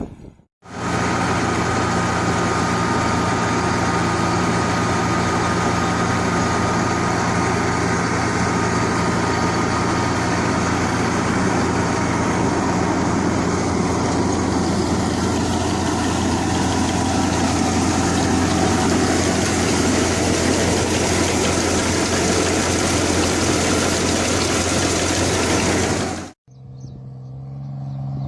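Kubota tractor engine running steadily at a constant speed, a loud, even engine drone with no change in pitch. It cuts off suddenly near the end.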